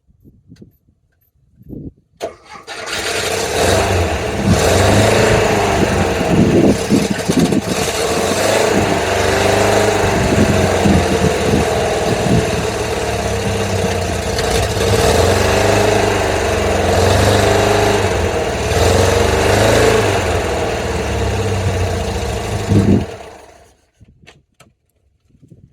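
Porsche 914's air-cooled boxer engine cold-started: it catches about two seconds in and runs unevenly, its revs rising and falling with short blips. Near the end it is blipped once more and shut off.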